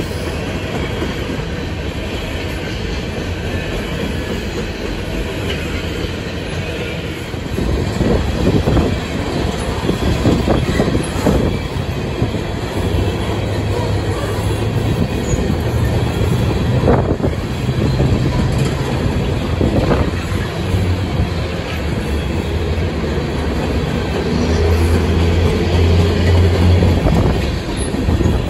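Empty coal cars of a freight train rolling past close by: a steady rumble of steel wheels on rail with repeated clacks of the wheels. It gets louder about seven seconds in.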